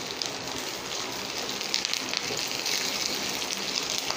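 Chopped onion, cashews, fennel seeds and curry leaves sizzling in hot oil in a small steel pan, stirred with a spatula: a steady crackling hiss.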